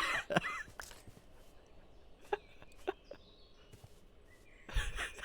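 Faint, scattered bird chirps: a couple of single short calls, then a quick run of several near the end.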